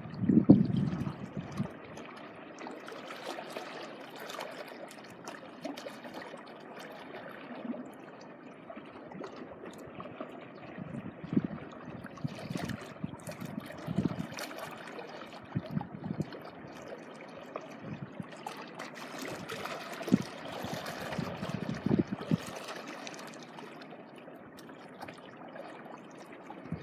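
Small sea waves washing and trickling over the shore: a steady wash of water with irregular surges, the strongest right at the start.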